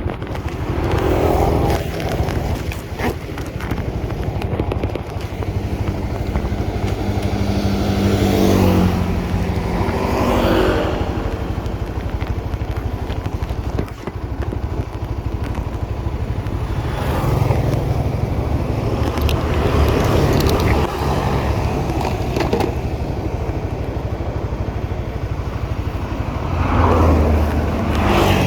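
Honda CB150R's single-cylinder engine running while riding, revving up and easing off several times, with steady wind and road noise underneath.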